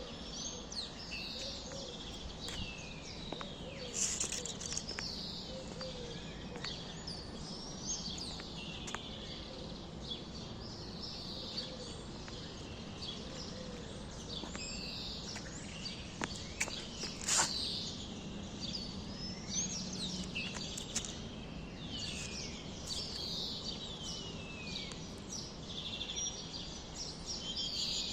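Many small songbirds chirping and twittering without pause, in quick falling notes over a steady background hiss.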